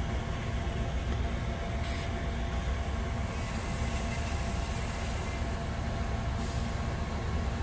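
Norfolk Southern freight train rolling past, a steady low rumble with a faint ringing tone over it.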